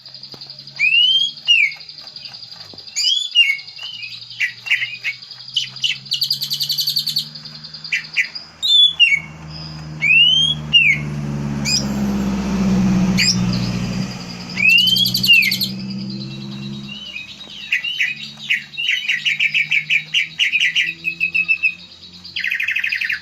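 Greater green leafbird (cucak ijo) singing: loud arched whistled notes and fast rattling trills, repeated phrase after phrase, with a steady high tone under them. A low drone swells and fades midway.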